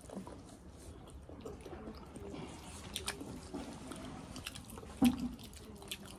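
Close-up chewing and eating by hand, with wet mouth sounds and scattered small clicks, and one brief louder thump about five seconds in.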